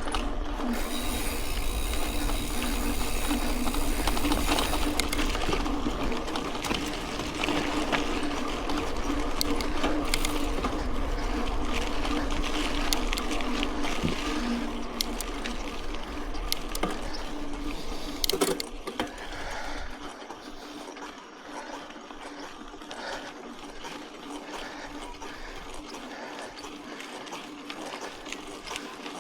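Mountain bike rolling on a dirt road: tyres on gravel with the chain and drivetrain rattling and clicking. A low rumble drops away about two-thirds of the way through, and the riding noise is quieter after that.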